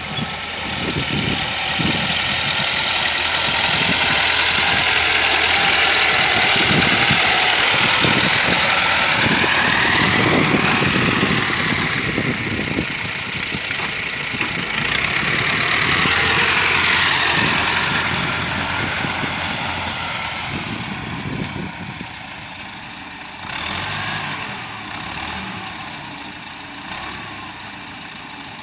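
T-40 tractor's diesel engine running under load, its speed rising and falling twice, then dropping back and quieter toward the end.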